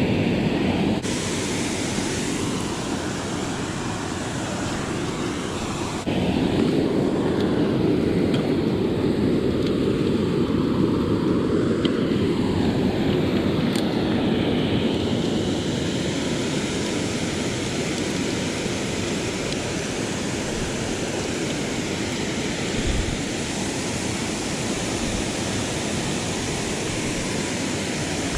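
Steady rushing of strongly flowing creek water. It gets louder about six seconds in, after a small shift about a second in.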